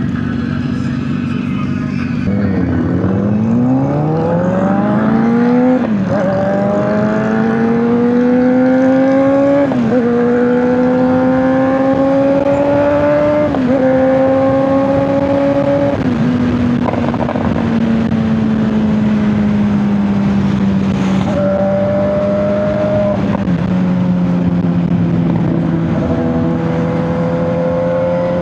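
Honda CBR600RR motorcycle's inline-four engine accelerating hard through the gears, its pitch climbing and then dropping at each of four quick upshifts before settling into a steady cruise, with wind rushing past.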